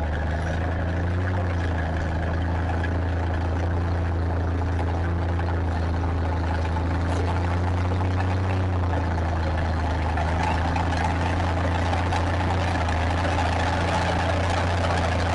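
Tractor engine running steadily with a low, even drone. More rough, noisy sound joins in from about two-thirds of the way through.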